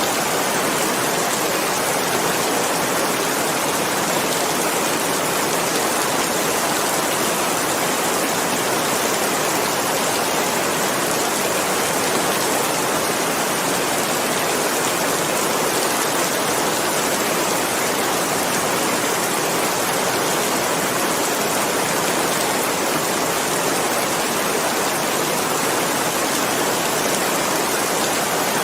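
Steady heavy rain: an even, unbroken hiss of rainfall with no distinct drops or thunder.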